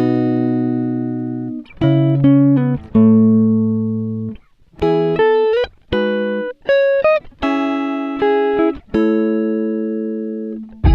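Background music: chords on a plucked string instrument, each starting sharply and fading away, played in short phrases with brief gaps between them.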